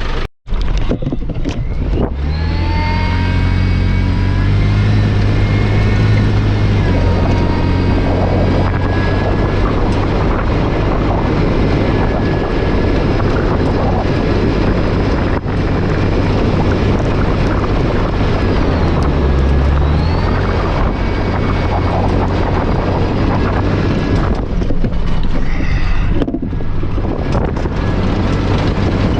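4x4 vehicle driving, its engine running steadily under road and wind noise. The engine note rises shortly after the start and shifts again about two-thirds of the way through.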